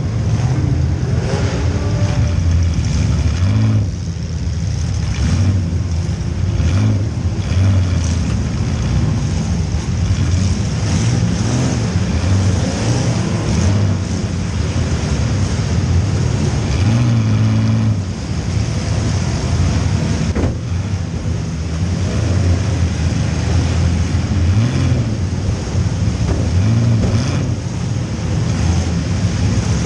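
Compact demolition-derby car's engine running hard from inside the cabin, its pitch rising and falling as it revs up and backs off again and again.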